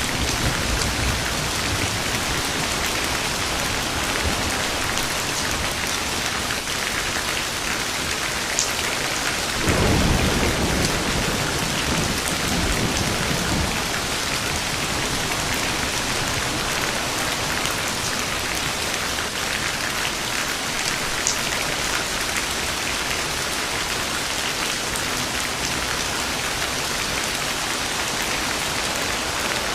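Steady heavy rain falling on a surface, with a low rumble of thunder rolling in about a third of the way through and fading over a few seconds.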